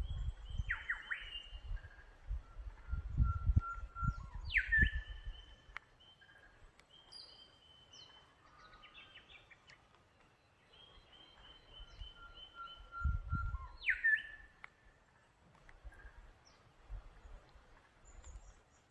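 Several Australian birds calling and singing: held whistled notes, short chirps, and two sharp downward-sweeping calls, about five seconds in and again near fourteen seconds. A low rumble comes and goes under them, strongest in the first few seconds.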